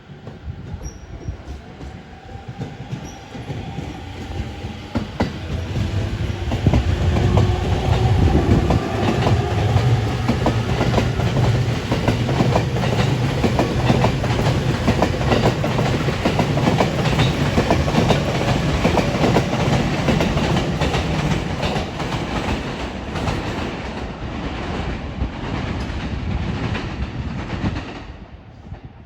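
A Sobu Line electric commuter train passing, its wheels clattering over rail joints in a fast clickety-clack. It builds over the first several seconds, stays loud, and drops away near the end.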